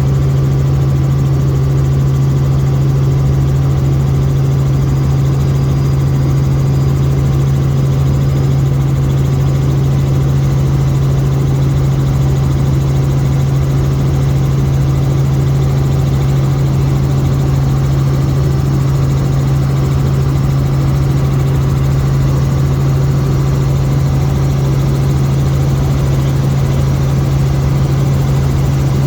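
Helicopter in flight, its engine and rotor making a loud, steady drone with a strong low hum that holds one pitch.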